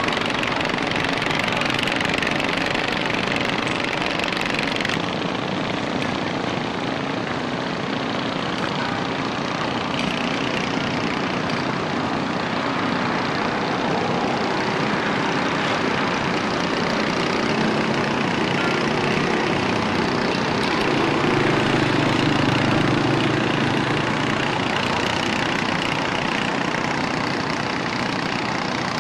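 A fishing boat's engine running steadily, with a constant drone that swells slightly a little past the middle.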